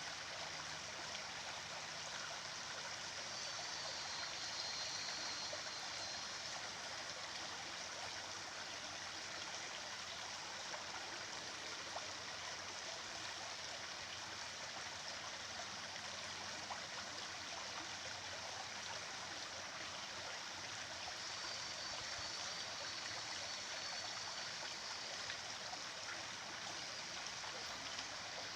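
A stream of running water, flowing steadily with no breaks. Twice a faint high trill sounds over it.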